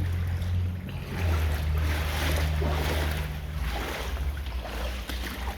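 Wet sloshing through shallow floodwater, in swells about twice a second, over a low steady hum.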